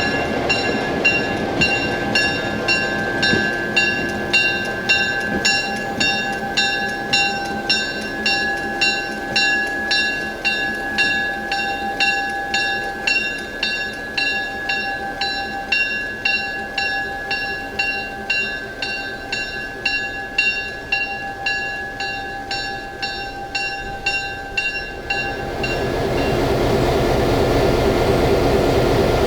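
A railroad bell ringing steadily, about two strikes a second. It stops near the end and a steady low rumble takes over.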